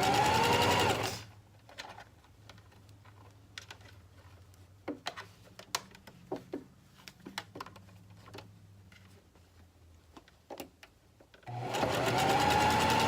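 Sewing machine running in two bursts, its motor whine rising as it speeds up, stitching hair wefts onto a wig cap. Between the bursts is a pause of about ten seconds with scattered light clicks.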